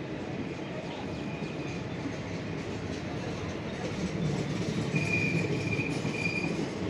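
Train rolling along the track with a steady rumble of wheels on rails, and brief high squeals twice, the second longer and louder, near the end.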